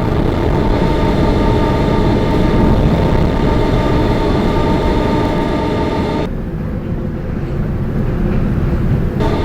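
Interior ride noise of a moving R160B Siemens subway car: rumble of wheels on rails with the steady whine of the AC traction motors. About six seconds in, the higher part of the whine cuts out abruptly for about three seconds, then comes back.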